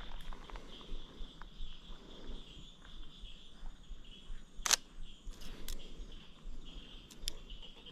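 Steady high insect drone in the background, with a sharp click about halfway through and two fainter clicks near the end, from the Sony A7 III's shutter firing.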